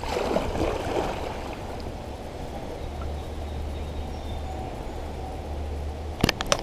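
Steady rushing of river water, with a low steady hum coming in about three seconds in and a few sharp clicks near the end.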